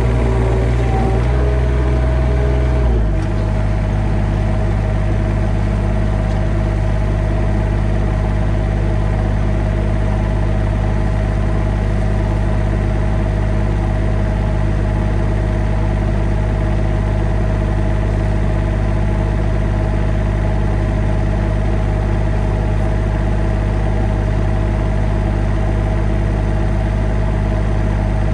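An engine running steadily at an even, low speed. Its note shifts and settles about three seconds in, then holds unchanged.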